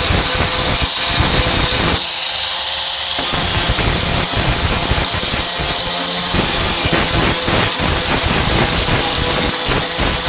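A 4-1/2 in. angle grinder running under load, its disc grinding down steel welds on the truck's tailgate, with a steady motor whine over a rough grinding noise. The grinding eases off and changes briefly around two seconds in.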